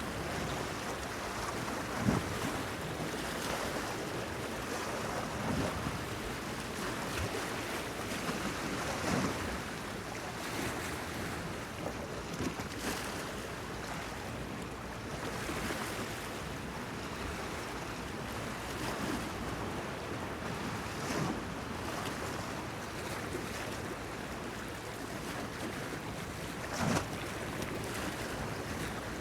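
Small waves lapping and splashing against a stone pier, with light wind. Now and then a wave slaps louder, most sharply about two seconds in and again near the end.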